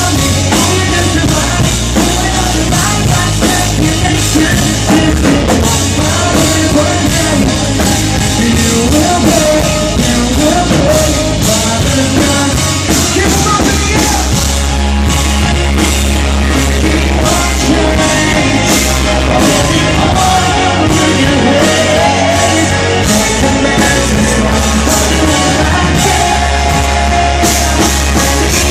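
Live rock band playing loudly, with drums, distorted guitars, heavy bass and singing, recorded close to the stage.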